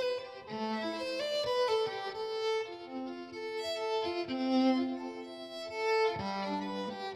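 Instrumental break of a live song: a violin plays a melody of held and moving notes over accompaniment.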